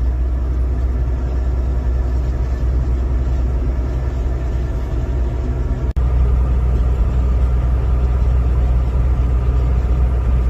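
Semi-truck cab interior while driving: a steady low engine drone and road rumble, with a momentary break about six seconds in.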